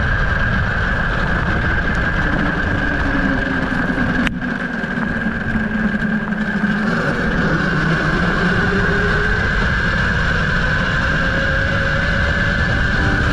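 Tuttio Soleil01 electric dirt bike under way: a steady high electric motor whine over heavy wind buffeting on the microphone. A second whine drops in pitch as the bike slows, then climbs again as it speeds back up, with a sharp click about four seconds in.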